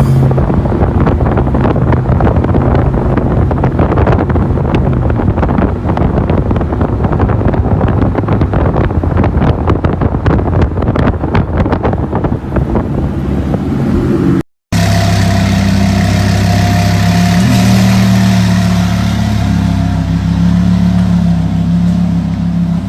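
Twin-turbo Lamborghini engine running loud, with a rough, crackly exhaust note. After a brief cut about two-thirds of the way in, it settles into a steadier drone with a short blip of revs.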